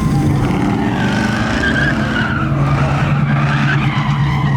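A car doing a donut: the engine runs at high revs while the tires squeal, the squeal coming in about a second in and wavering in pitch until near the end.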